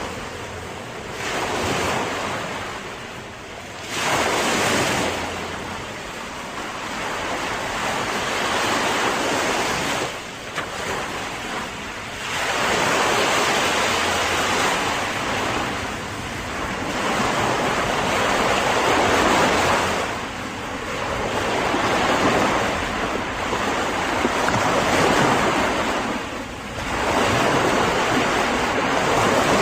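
Ocean waves breaking and washing on the shore, swelling and fading every few seconds, with wind buffeting the microphone.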